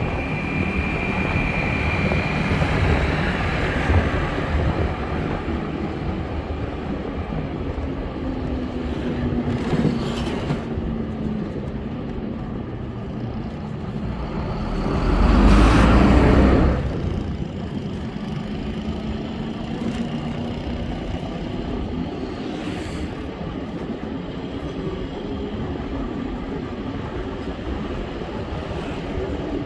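Continuous road and traffic noise while riding, with vehicles passing. A louder rush lasts about two seconds just past halfway.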